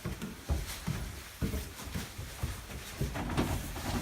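Footsteps on a hard floor, about two steps a second, in a small room.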